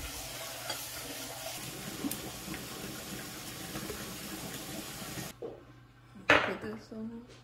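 Instant ramen noodles sizzling and being stirred in a hot pan with a little water and sauce; the sizzle cuts off suddenly about five seconds in. A brief sound of a voice follows about a second later.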